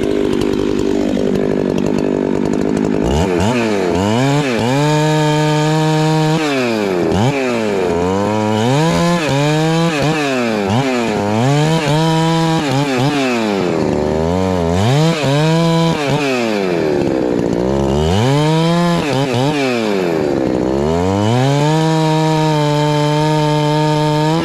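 Husqvarna 390 XP two-stroke chainsaw running at a steady pitch for a few seconds, then revved up to full throttle and let back down again and again while bucking firewood.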